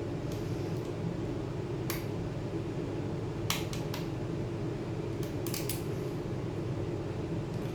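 Scattered small sharp clicks and taps, about seven in all and bunched in the middle, as small parts and tools are handled while taking a laptop apart. A steady low hum runs underneath.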